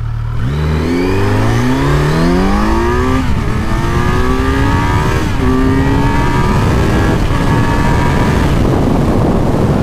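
2018 Kawasaki Z900's inline-four engine at full throttle from a standstill, its revs climbing steeply through the gears with three quick upshifts, the first about three seconds in. Near the end, wind rush at high speed swamps the engine note.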